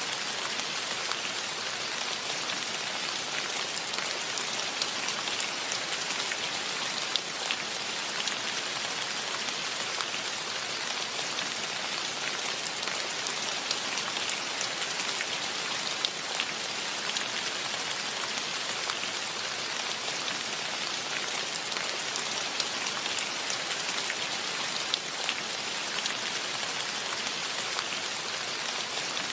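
Steady rainfall: a continuous even hiss with many individual raindrops ticking sharply throughout.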